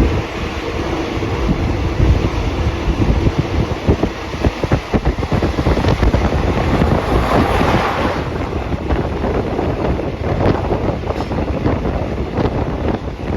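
Passenger train running at speed, heard from inside the carriage: wind rushing in buffets the microphone over a steady rumble and many quick knocks of the wheels and carriage.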